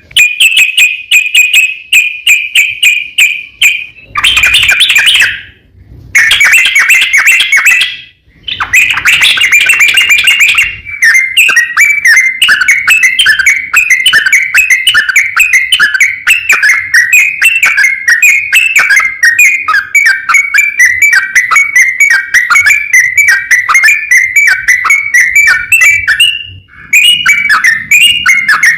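Yellow-vented bulbul singing long, rapid rolling phrases of bubbly chattering notes, with short breaks about five, eight and twenty-six seconds in. It is a challenge song that calls out rival bulbuls.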